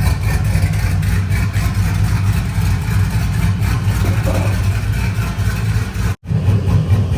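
Truck engine running with a steady, pulsing low note, its exhaust not yet finished. The sound breaks off for an instant about six seconds in.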